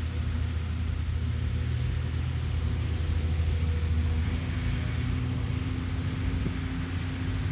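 Diesel engine of a Caterpillar excavator running steadily, a low drone whose pitch shifts slightly about four seconds in.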